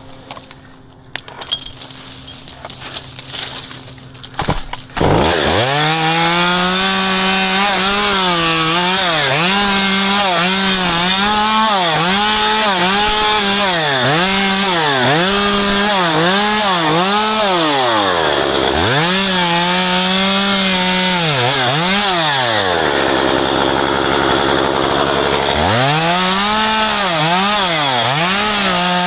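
Chainsaw engine coming in suddenly about five seconds in, then revved up and down again and again while cutting ficus branches. It drops to idle for a few seconds near the end before revving again.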